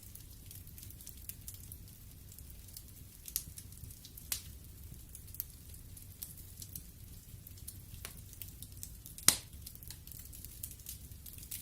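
Wood fire in a fireplace crackling, with scattered sharp pops over a low steady hiss; one pop about nine seconds in is much louder than the rest.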